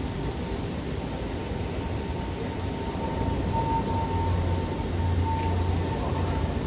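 Electric train humming, with a steady high whine over a low hum, both growing louder a little past halfway.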